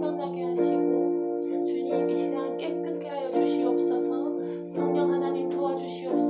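Instrumental music: piano and keyboard playing held chords that change about every second and a half.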